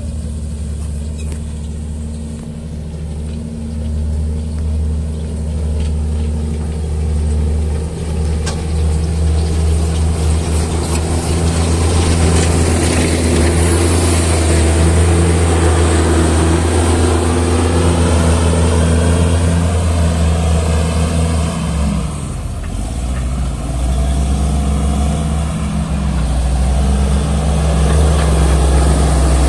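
Heavy engine running steadily under load. About 22 seconds in its note drops briefly, then picks up again.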